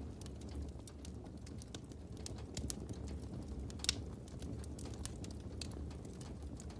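Fire crackling: irregular sharp pops and snaps over a steady low rumble of flames, with one louder pop about four seconds in.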